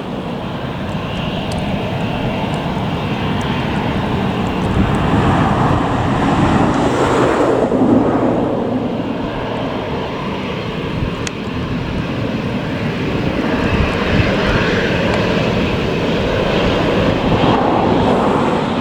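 Boeing 737-800 jet airliner's twin CFM56 turbofan engines running during departure, a steady rushing noise that swells and eases slightly.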